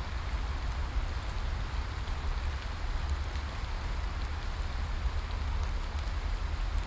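Steady rain falling, an even hiss with faint scattered drop ticks, over a constant deep low rumble.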